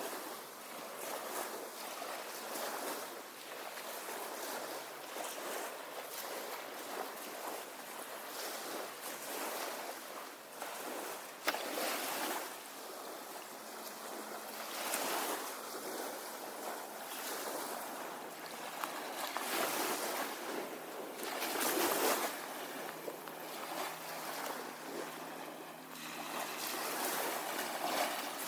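Small bay waves washing up on a sandy beach, swelling and fading every few seconds, with wind. There is one sharp tick about halfway through.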